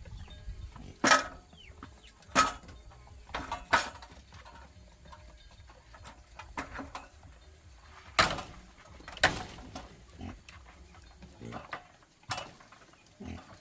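Pigs giving short, sharp grunts and squeals, about six separate calls at irregular intervals over a low background rumble.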